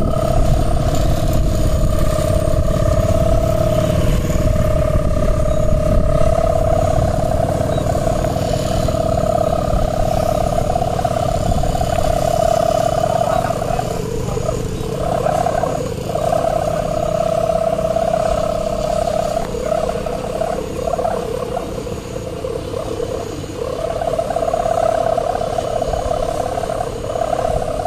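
Kite humming in strong wind: a steady, high droning tone that wavers and briefly breaks off several times past the middle, over the low rumble of wind on the microphone.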